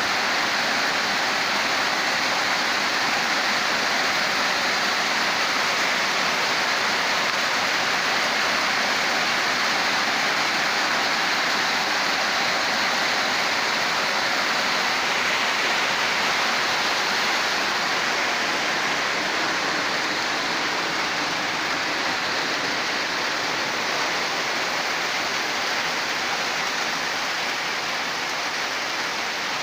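Steady rushing water, a loud even hiss with no breaks that starts abruptly and eases slightly near the end.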